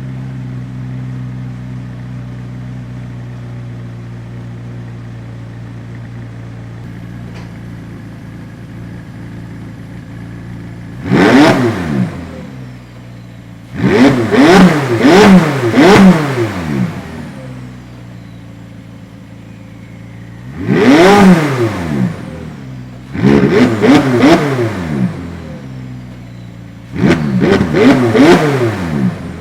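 McLaren 570S's 3.8-litre twin-turbo V8 idling steadily, then revved in five quick bursts, each rev shooting up and dropping back sharply in pitch, some bursts holding two or three blips in a row.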